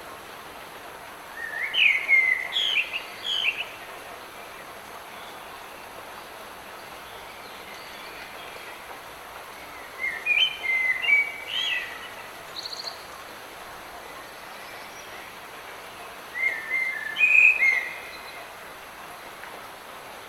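A songbird sings three short phrases of quick chirps and whistles, spaced several seconds apart, over the steady hiss of light rain.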